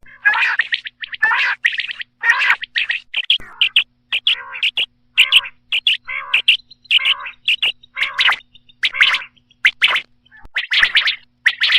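Common quail calling over and over in short, sharp bursts, about one call a second with brief gaps between.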